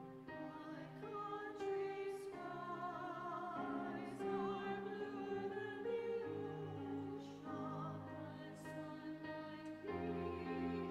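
Women's vocal ensemble singing a slow song in several parts, the voices holding long notes with vibrato.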